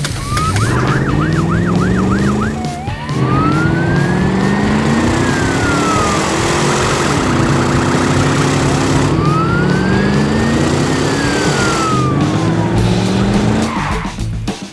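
Police siren sound effect with engines revving. The siren warbles fast for about two seconds, then sweeps slowly up and down twice, while engine notes keep rising in pitch underneath.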